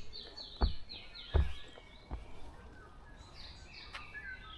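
A songbird singing quick runs of short falling notes, with a pause in the middle. Soft footsteps thud about every three-quarters of a second through the first half.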